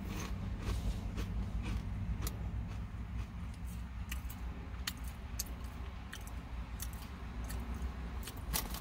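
A hard, crunchy cheese snack (Chezzels) being chewed: irregular sharp crunches and clicks over a steady low hum.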